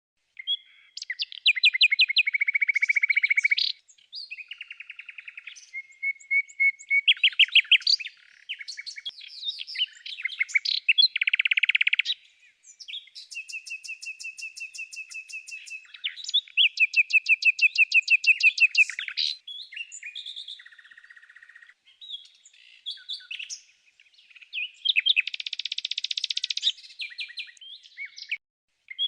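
Songbirds singing in rapid, varied trills and chirps, with repeated-note runs broken by short pauses.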